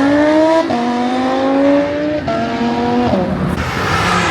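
A car engine accelerating hard, its pitch climbing and then dropping twice as it shifts up, settling lower near the end.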